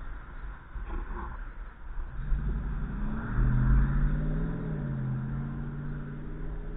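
A motor vehicle drives past, its engine tone building and then dropping in pitch as it goes by, over a steady low rumble of wind on the microphone.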